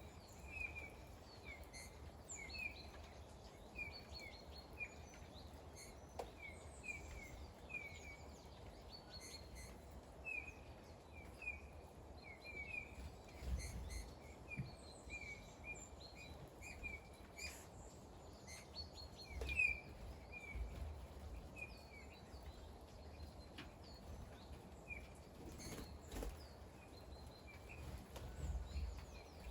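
A small bird calling over and over in short chirps, about two a second, over a steady low rumble with a few scattered faint ticks.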